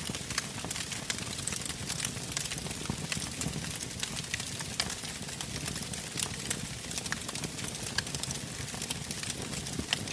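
Campfire crackling, with many small sharp pops and snaps over a low steady rumble of burning wood.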